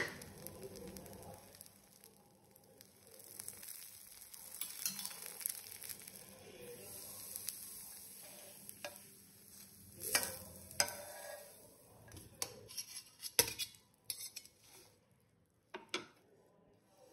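Dosa batter sizzling faintly on a hot dosa tava, with a few sharp clicks and short scrapes in the second half.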